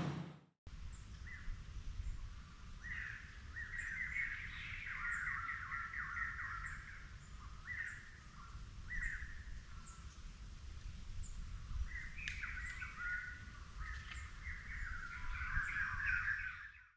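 Small birds chirping and twittering in quick runs, busiest in two spells, over a low steady rumble.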